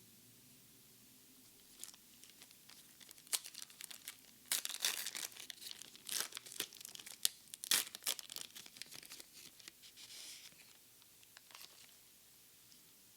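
Foil wrapper of a Pokémon card booster pack being torn open and crinkled in the hands, a run of sharp crackles and rips, loudest in the middle, that dies away to a soft rustle.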